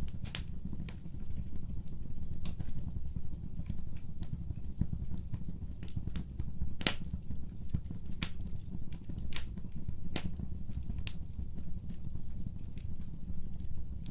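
Fireplace fire burning: a steady low rumble of flame with irregular sharp crackles and pops, a few of them louder.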